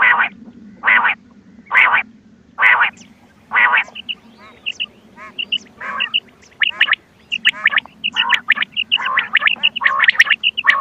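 Recorded quail calls from a hunting lure tape: harsh calls about once a second, then from about four seconds in a busier mix of short high chirps and quicker, overlapping calls.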